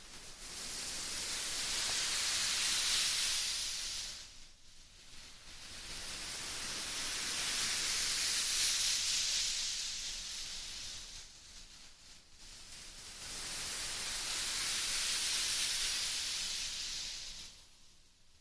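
Soft, smooth hissing noise in three long swells, each rising and fading over about four to five seconds, with short quieter gaps between them, near the microphone as an ASMR trigger.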